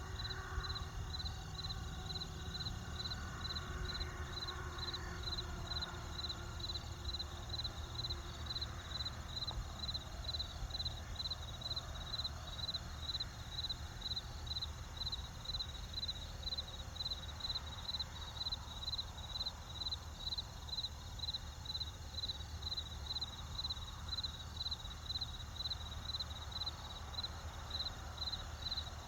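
Crickets chirping in an even rhythm, about two high chirps a second, over a low steady rumble.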